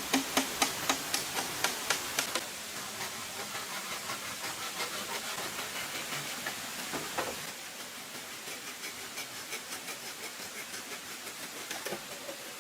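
Rapid sharp knocks, about four a second, stop a little over two seconds in. A steady hiss with lighter, evenly spaced ticks follows.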